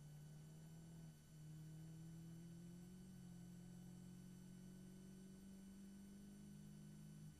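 Faint engine note of a Caterham race car under acceleration, heard from the cockpit: a steady hum that breaks briefly about a second in, then rises in pitch and holds.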